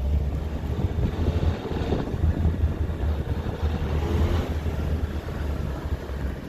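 Subaru Sambar mini truck engine puttering along at low speed with a steady, fluttering rumble, a clattery running sound likened to a John Deere diesel. The engine gets raspy under throttle, and the owner is unsure of the noise's cause, guessing a heat shield or baffling rather than engine knock.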